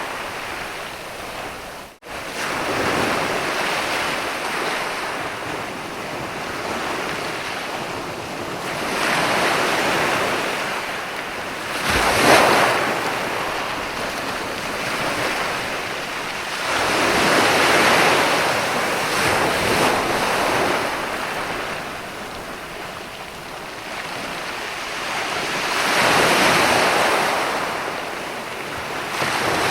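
Sea surf washing onto a sandy beach: a continuous hiss that swells and fades as each wave comes in, several times over. The sound drops out for an instant about two seconds in.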